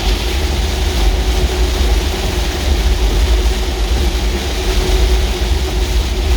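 Road and engine noise of a vehicle driving: a steady low rumble with a constant hum over it.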